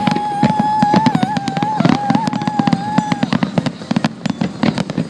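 Fireworks display: dense, rapid crackling and popping throughout. A held high tone runs over it until about three seconds in.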